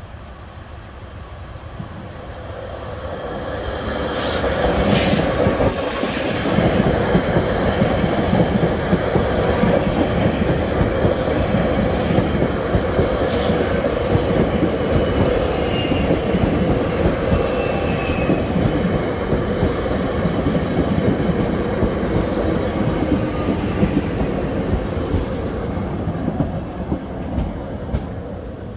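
Two coupled South Western Railway Class 458 electric multiple units passing over the level crossing. The rumble grows over the first few seconds, then runs steadily with scattered sharp wheel clicks and a few faint squeals midway, and eases off near the end.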